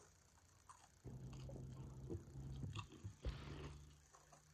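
A person chewing a mouthful of burrito-bowl food with soft, wet mouth clicks, and a quiet closed-mouth hum from about a second in until nearly the end.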